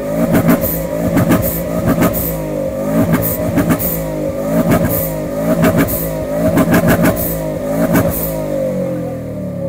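Turbocharged Subaru Forester engine being blipped over and over, the revs rising and falling about once a second with a short hiss from the dump valve at each lift-off. Near the end it settles to a steady idle.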